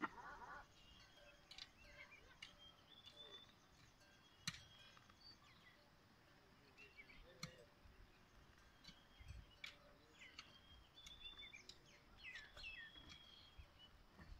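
Faint birdsong: small birds giving scattered short chirps and whistled notes, with a few soft clicks between them.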